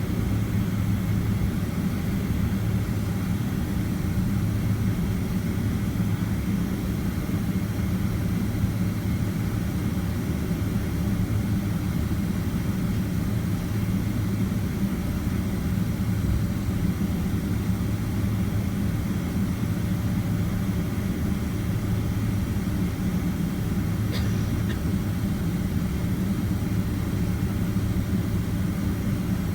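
Steady low drone of a Boeing 767-300ER's jet engines at low power, heard from inside the passenger cabin before takeoff. A faint click comes once, late on.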